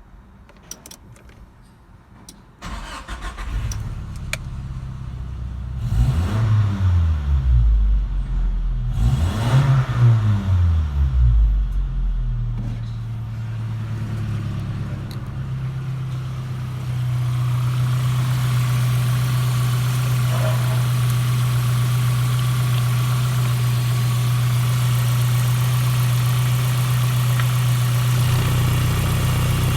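Ford Maverick's 2.4-litre Nissan KA24E four-cylinder petrol engine starting about three seconds in, revved up and back down twice, then idling steadily, the idle getting a little louder about halfway through.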